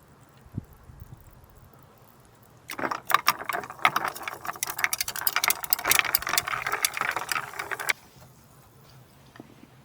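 Dense, rapid rattling and clicking for about five seconds, starting suddenly a few seconds in and stopping abruptly.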